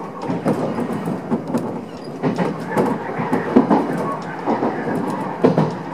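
Odakyu 1000 series electric train running, heard from inside the front car. Its wheels clatter in irregular knocks over rail joints and pointwork under a steady running rumble.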